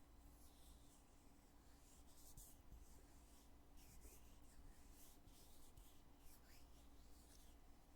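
Faint, soft scratchy strokes from the lid of a cosmetic foundation container being handled, opened and closed, repeating every second or so over a low steady room hum.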